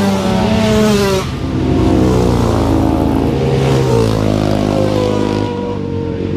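Several racing motorcycle engines at full race pace, overlapping, their pitch repeatedly rising and then dropping as the bikes accelerate and change gear.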